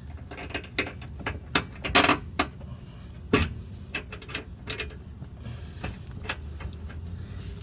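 Sharp metallic clicks and clinks of tools and steel suspension parts being worked by hand. About a dozen come at uneven intervals, the loudest about two seconds in.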